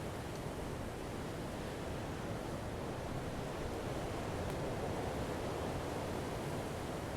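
Campfire burning with a steady low rush of flames and only a couple of faint pops.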